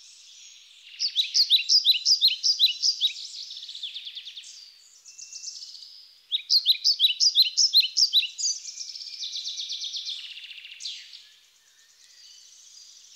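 Birds chirping: two runs of rapid, short, high chirps, one starting about a second in and another about six seconds in, over a steady high twittering.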